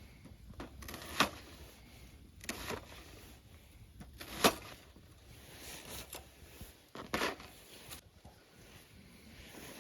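A handful of separate knocks and clicks, irregularly spaced, the loudest about four and a half seconds in.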